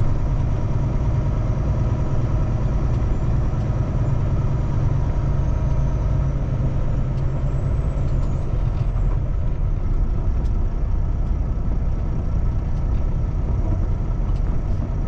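Diesel engine of a Kenworth T680 semi-truck running steadily at low speed, a deep continuous rumble that eases slightly about halfway through.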